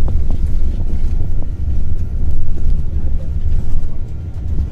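Heavy, steady low rumble of a bus's engine and tyres heard from inside the cabin while driving, with a few faint ticks and rattles.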